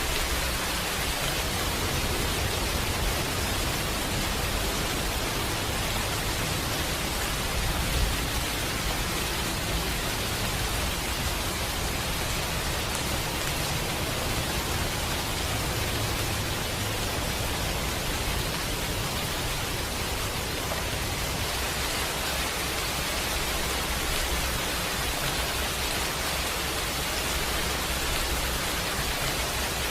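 Steady rain falling, an even unbroken hiss, with one brief low thump about eight seconds in.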